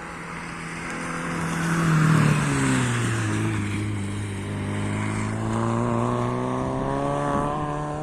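Rally car engine passing close at speed, loudest about two seconds in, its pitch dropping as it goes by and then climbing steadily as it accelerates away.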